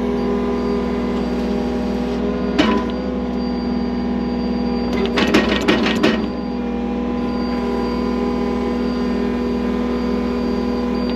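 Heavy-equipment engine, most likely the skid loader, running steadily at a constant speed while digging. A single metal clank comes about two and a half seconds in, and a quick run of clanks follows around five to six seconds in.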